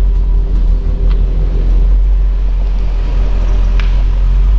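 Morris Minor Traveller's one-litre Austin four-cylinder engine idling steadily, still warming up after a cold start. A couple of faint clicks sound over it.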